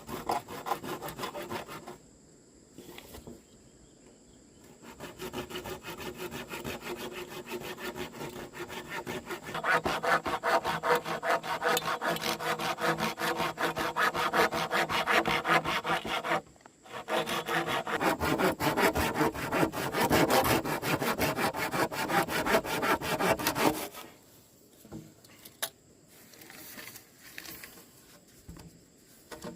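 A saw cutting through wood in quick, steady back-and-forth strokes. It pauses briefly about two-thirds of the way through, then stops, leaving only faint scattered sounds near the end.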